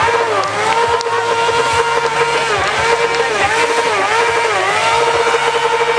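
Motorcycle engine held at high revs during a stunt, its pitch dipping briefly and coming back up every second or so as the throttle is eased and reopened.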